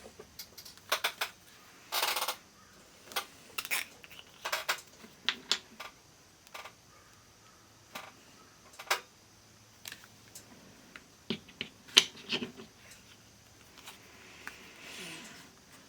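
Irregular clicks and light metallic taps of small tools and parts being handled during bench work on an analog multimeter, with a short scraping rasp about two seconds in.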